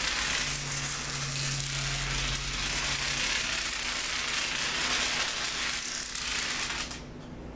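A long chain of mini dominoes toppling one into the next: a dense, rapid clicking clatter that stops suddenly about seven seconds in.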